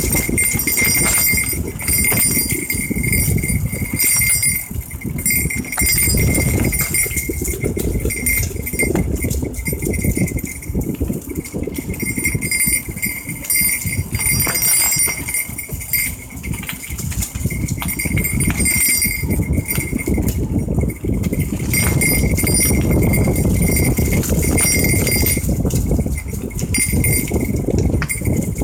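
Mountain bike rolling over a rough, bumpy trail: a steady low rumble with many small knocks and rattles, over which a high ringing or buzzing tone runs on and breaks off briefly a few times.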